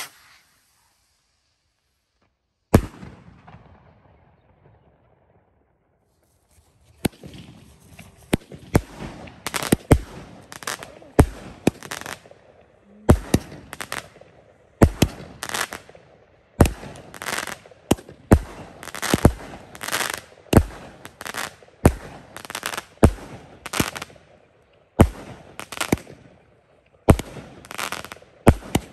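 Fireworks going off: a single bang about three seconds in, then from about seven seconds a fast series of bangs, one or two a second, with crackling between them.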